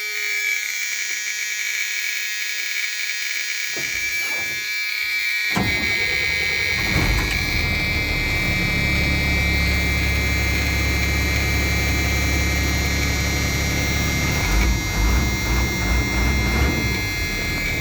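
A steady, high-pitched warning buzzer sounds throughout. About five and a half seconds in, the bus's Caterpillar 3126 inline-six diesel cranks and starts from cold, then settles into a steady idle, with a few brief surges near the end.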